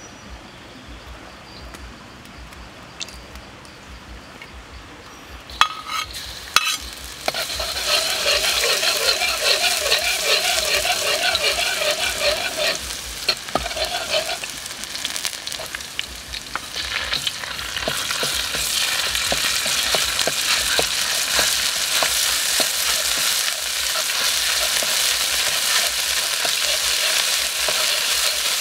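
Frying in hot oil in a carbon-steel wok: after a few quiet seconds and two sharp clicks of a metal ladle against the wok, food goes into the oil and sizzles loudly. The ladle scrapes and stirs in steady strokes, and the sizzle grows louder again a little past halfway through.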